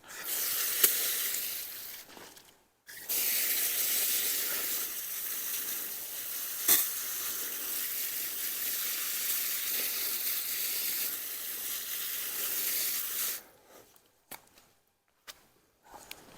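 Garden hose spraying water onto freshly dug potatoes to wash the soil off. It runs for about two seconds, stops briefly, then sprays steadily for about ten seconds and cuts off.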